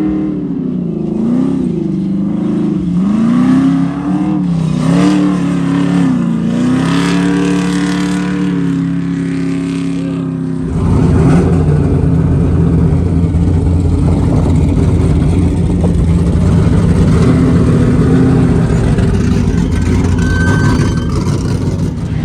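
Off-road race car engines revving up and down again and again. About ten seconds in, the sound changes suddenly to a louder, rougher, steady engine noise close by.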